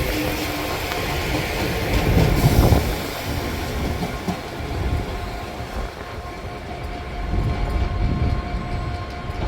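Train moving through the station: a low running rumble with wheel-on-rail clatter, swelling louder about two seconds in, with faint steady whine tones later on.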